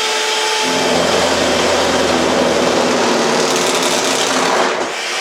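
Electric food mixer with whisk beaters running at full speed, a steady whir. About a second in, a lower buzzing hum joins it and drops away again near the end, with no pop.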